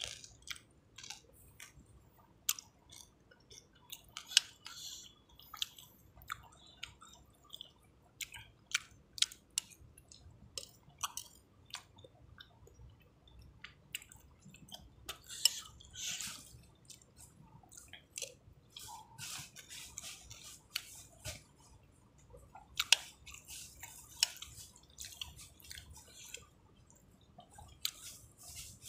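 A person eating fried noodles (mie goreng) with wet chewing and mouth smacks, and irregular sharp clicks of a metal spoon against the bowl.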